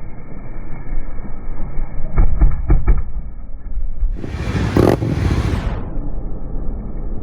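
Indian Challenger's V-twin running through a Freedom Performance Union 2-into-1 exhaust, with a few quick throttle blips about two seconds in and a louder rev about four seconds in that fades by six seconds.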